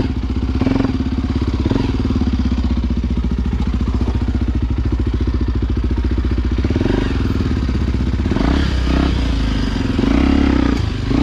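Single-cylinder Honda XR Tornado enduro motorcycle engine running steadily as it is ridden, with a few short knocks and clatter mixed in.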